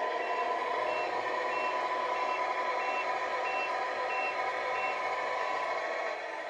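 Tamiya MFC-03 sound unit in the 1/14 Volvo FH16 tow truck playing its reversing-alarm beeps, about eight even beeps that stop near the end, over the unit's steady simulated truck engine sound. The beeps mean the model truck is backing up.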